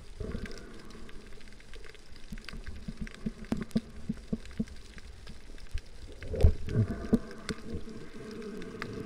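Underwater ambience picked up through an action camera's housing: scattered sharp clicks and crackles over a low hum with a few steady tones, and a loud low thump about six and a half seconds in.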